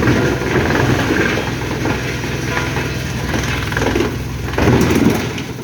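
Heavy engine running steadily, with irregular noise from machinery working on top.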